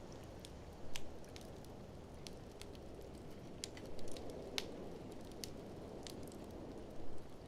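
Wood fire crackling with scattered sharp pops, and louder clusters of pops about one, four and seven seconds in, over a steady low rush of blizzard wind.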